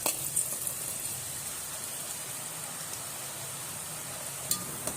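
Murukku dough frying in hot oil: a steady sizzle, with a few sharp clicks near the start and near the end.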